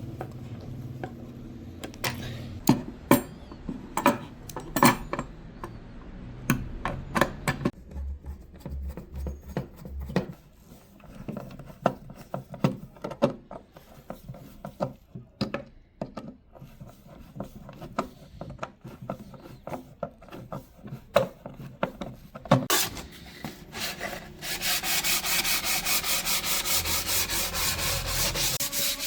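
Scattered taps, knocks and short scrapes of hand work on wood, then, about four seconds before the end, wood being sanded with fast, even rubbing strokes.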